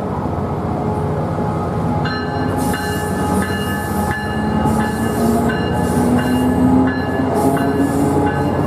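Freight train rolling past, its cars and wheels making a steady rumble, with short high-pitched metallic squeals coming and going from about two seconds in.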